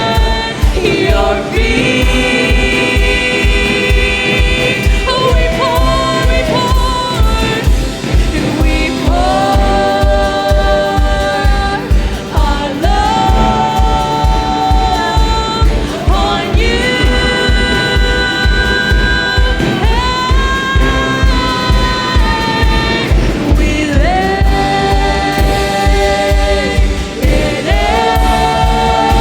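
Live worship music: voices holding long, sliding notes without clear words over a band with a steady low pulse.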